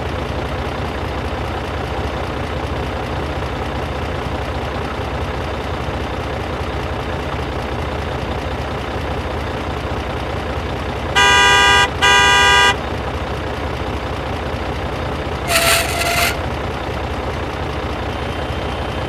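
A vehicle motor running steadily. About eleven seconds in, a horn gives two short toots in quick succession, and a shorter, higher toot follows a few seconds later.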